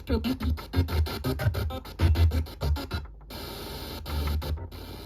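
Music with a heavy bass beat played from a radio station broadcast, breaking off briefly about three seconds in.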